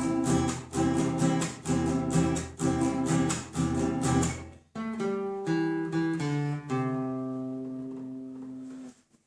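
Acoustic guitar strummed in a steady rhythm, then, a little under five seconds in, a few single chords and a last chord left ringing and fading out: the ending of the song.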